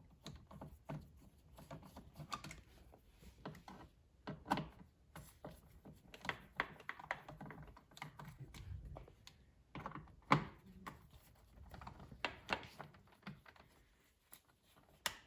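Faint, irregular small clicks and taps of a Torx screwdriver backing out the T15 screws that hold down a car's center armrest console, with the loosened screws and plastic trim being handled.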